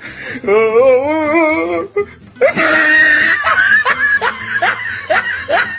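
Dubbed-in comedy laughter sound effect: a wavering high-pitched laugh, then from about two and a half seconds in a loud run of repeated cackling.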